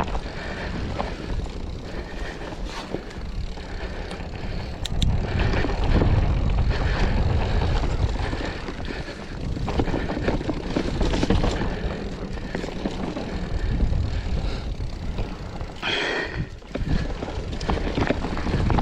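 Wind buffeting the microphone and road noise from a moving bike, uneven and rumbling, with a brief higher-pitched sound about sixteen seconds in.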